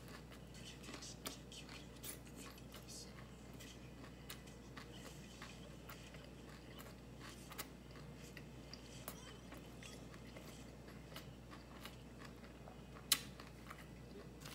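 Faint chewing with many small scattered clicks and crunches, and one sharper click near the end.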